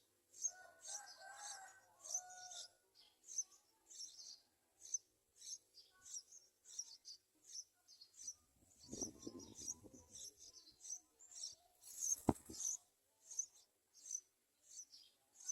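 Birds chirping: short high-pitched chirps repeating about two to three times a second, with a lower call in the first couple of seconds. A rustle comes around nine seconds in and a single sharp knock just after twelve seconds.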